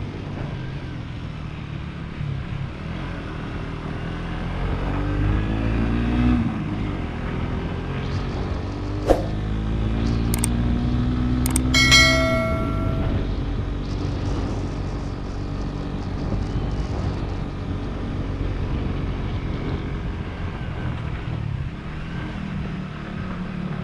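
Motorcycle engine running under way, its pitch rising twice as it accelerates. Midway come a few sharp clicks and a short beep-like tone.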